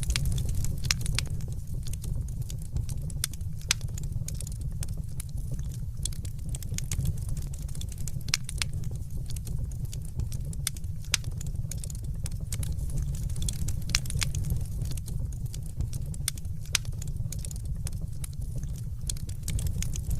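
Fireplace fire crackling: a steady low rumble of burning with irregular sharp pops and snaps scattered throughout.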